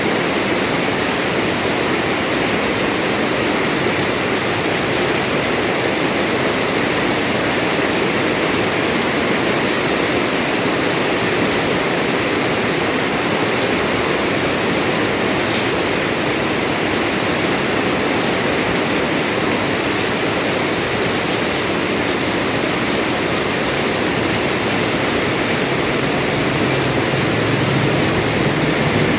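Steady rain falling, an even hiss with no break. A low rumble rises in the last few seconds.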